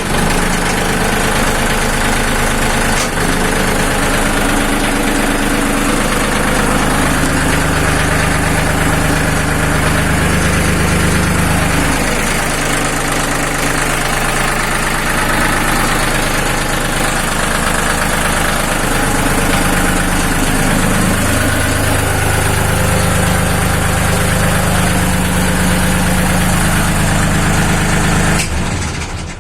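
Lister Petter diesel engine running steadily on test, its speed shifting slightly now and then. The sound cuts off sharply near the end.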